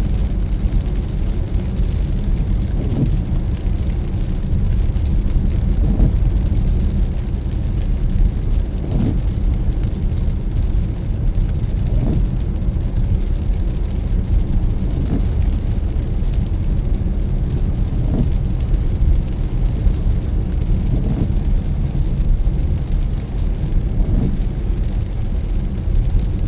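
A car driving on a wet road, with a steady low rumble of tyres and engine. A short, regular sound comes about every three seconds, the windshield wipers sweeping.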